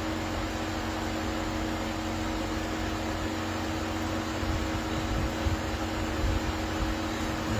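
A steady mechanical hum: two low tones under an even hiss, with a low rumble that turns slightly uneven about halfway through.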